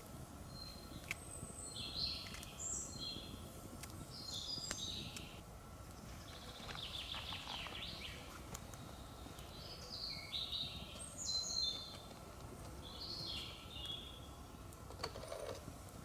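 A songbird singing in the forest: short, high chirping phrases repeated every second or two, over a faint steady background hiss with a few light clicks.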